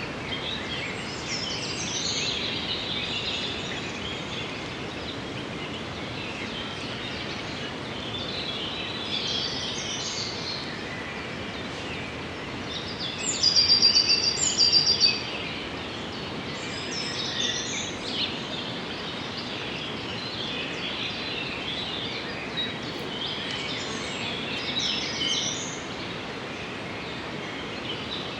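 Several wild birds calling and singing over a steady background hiss, with one loud, fast trill about halfway through.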